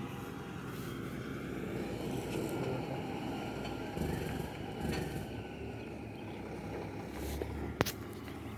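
Concrete pump truck's diesel engine running as the truck parks and positions, a steady low rumble. One sharp click near the end.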